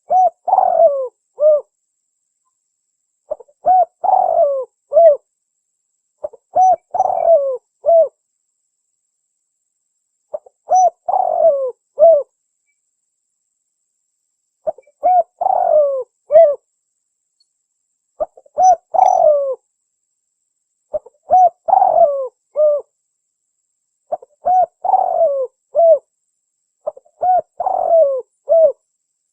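Spotted dove (tekukur) cooing: nine phrases of several coo notes each, every three to four seconds, with dead silence between them. It is a clean lure call of the kind used to draw wild doves in.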